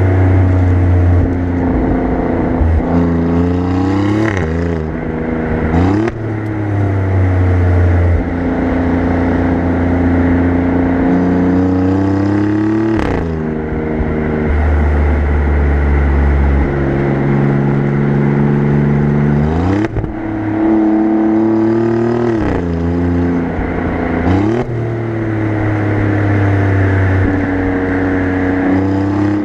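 Exhaust note of an Alfa Romeo Giulia Quadrifoglio's twin-turbo V6, heard from the rear bumper while driving. The engine pitch rises and falls and drops sharply at several gear changes, at around 4, 6, 13, 20, 22 and 24 seconds in.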